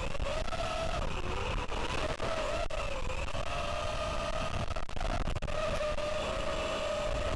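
Miniquad FPV racing drone's brushless motors and propellers whining, dipping in pitch about a second in, then holding a steady note with a slight rise near the end. Strong gusty wind buffets the onboard microphone with a heavy low rumble throughout.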